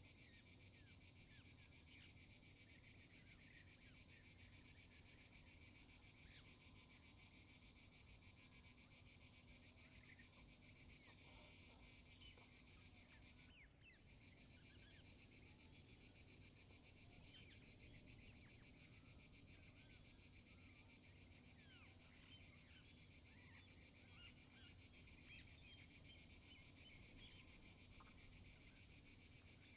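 Faint, steady high-pitched chorus of tropical insects, with scattered short chirps over it. The drone cuts out for a moment about fourteen seconds in, then resumes.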